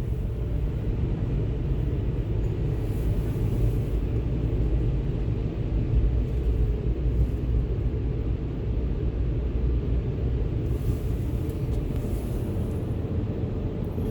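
Steady low rumble of tunnel car wash drying machinery, heard from inside the vehicle's cabin.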